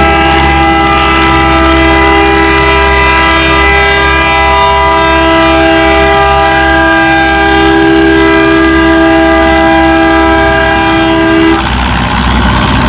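A loud multi-note horn sounds one long, steady chord for about eleven and a half seconds, breaks off, and starts again about two seconds later. A low engine rumble runs underneath.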